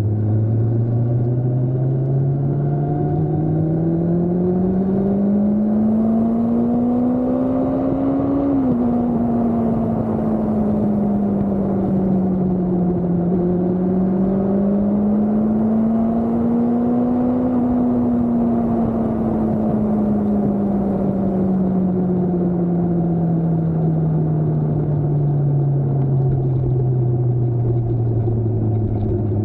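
Motorcycle engine under way, its revs climbing steadily for about eight seconds, then dropping suddenly as at a gear change. It picks up again briefly, then the revs fall slowly for the rest of the time as the rider eases off.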